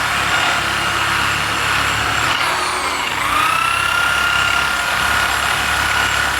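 Electric grinder running at high speed, grinding down weld built up in a car's inner CV joint housing, with a steady whine and hiss. About two and a half seconds in the whine dips as the tool bites under load, then climbs back to speed.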